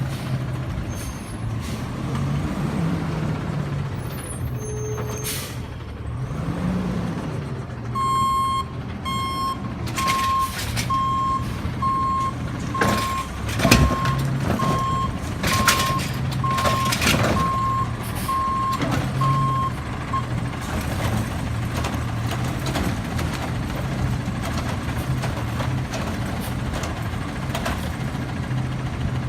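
Garbage truck's engine running with its reversing beeper sounding about once a second for roughly twelve seconds while it backs up. Several sharp knocks and clanks come in the middle of the beeping.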